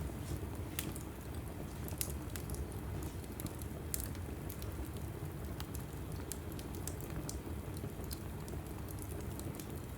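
Wood fire burning in a fireplace: a steady low rumble of flame with scattered sharp crackles and pops, the loudest about two and four seconds in.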